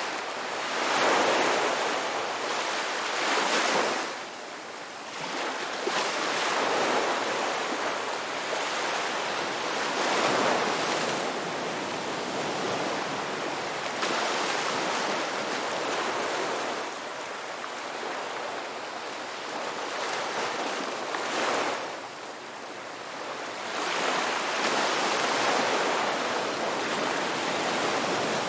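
Ocean surf breaking and washing on a rocky shore: a continuous rush of water that swells and falls back every few seconds as each wave comes in.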